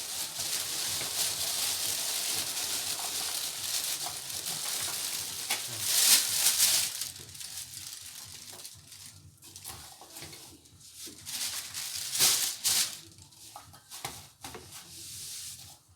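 A pan sizzling on the stove as the contents are stirred, most likely butter melting for the cake mixture. The hiss swells about six seconds in and dies down soon after; a few short, louder scrapes or rustles come near the end.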